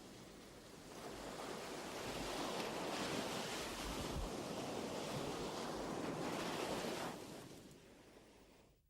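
Ocean surf: a wash of breaking waves that swells about a second in, holds, then fades out near the end.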